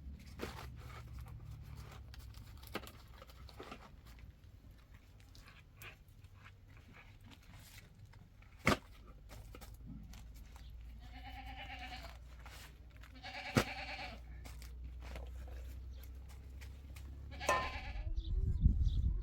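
Goats bleating: three separate bleats, two close together past the middle and one near the end, over a steady low rumble, with a sharp click a little before the first bleat.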